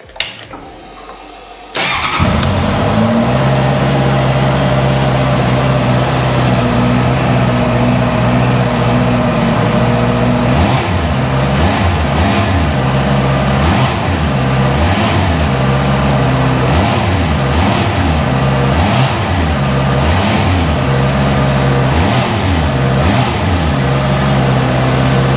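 2018 Honda CB650F's inline-four engine starting up about two seconds in and idling steadily, then revved in quick blips about once a second from roughly ten seconds in, before settling back to idle near the end.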